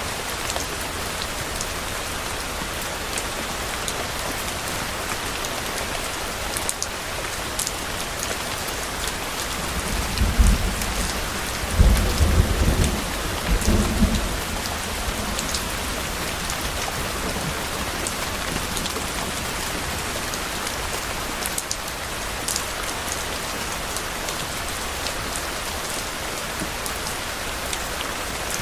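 Steady rain falling, with a low roll of thunder about ten seconds in that rumbles in a few swells for four or five seconds before dying back into the rain.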